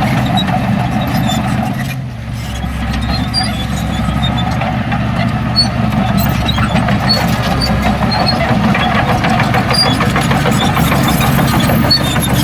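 Heavy diesel machinery engine running steadily, dropping off briefly about two seconds in.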